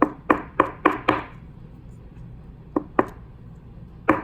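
Sharp taps or knocks on a hard surface, such as a card holder or hand on a tabletop: five quick ones in the first second or so, two more close together about three seconds in, and one near the end.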